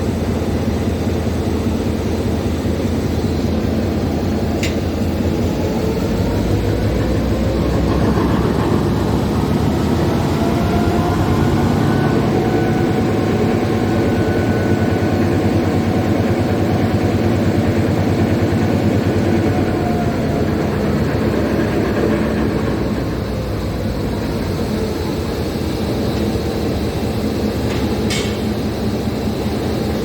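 Class M6 diesel locomotive's engine running steadily, its pitch rising a few seconds in, holding, then dropping back near the end. A couple of short metallic clicks sound near the start and near the end.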